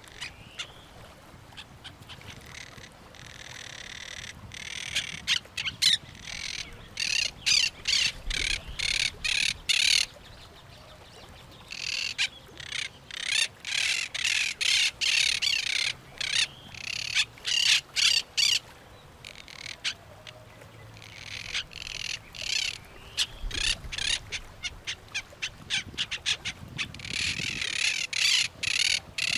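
Birds calling in fast runs of harsh, repeated squawks, in three long bouts with short quieter gaps between them.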